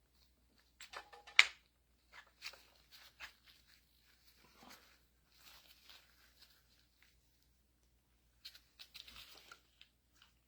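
Small metal clicks and taps of hydraulic gear pump parts being handled as the shaft and its gear are fitted back into the pump housing, with one sharp click about a second and a half in.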